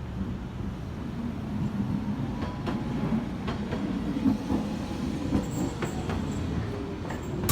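Shinkansen train running: a steady low rumble with a few faint clicks from the wheels on the rails.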